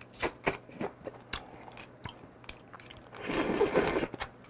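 Close-up mouth sounds of a person biting and chewing food: a string of crisp crunches and clicks, then a louder, denser stretch of chewing about three seconds in.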